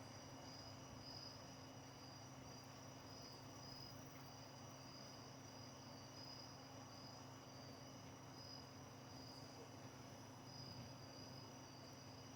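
Crickets chirping: a faint, continuous high trill that pulses slightly, over a steady low hum.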